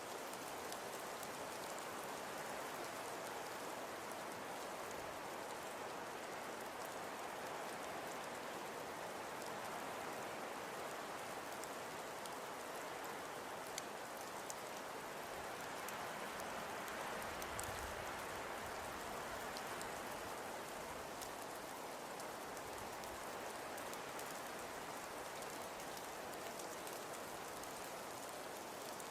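Wood fire burning in a fireplace: a steady hiss with scattered small crackles and a couple of sharper pops about halfway through.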